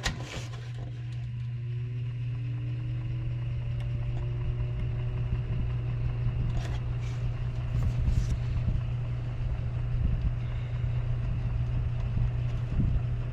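Old Lasko box fan's electric motor running with a steady hum, its whine rising as the motor slowly comes up to speed and then holding steady; the motor has just had oil put directly on its bearing shaft because it labours to start.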